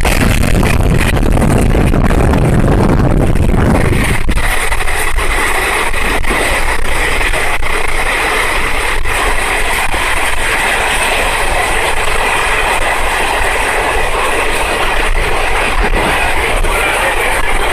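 Jan Shatabdi passenger train running on the rails: a steady, loud rush of wheel and track noise with scattered clicks from the rail joints. The deep rumble drops away about four seconds in.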